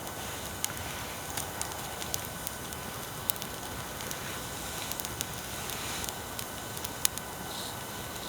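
Bonfire crackling, with irregular sharp pops over a steady hiss of recording noise.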